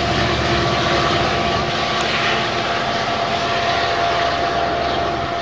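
Metrolink train with an F59PHI diesel locomotive departing, its engine working hard: a steady drone with several held tones over rumbling rail and wheel noise.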